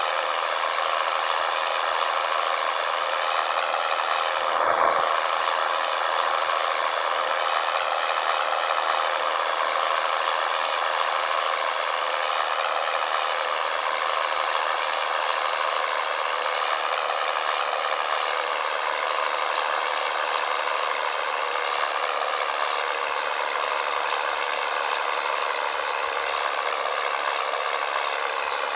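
Scania 113 truck's diesel engine running steadily under way, its pitch wavering slowly, with rattling, and a single knock about five seconds in.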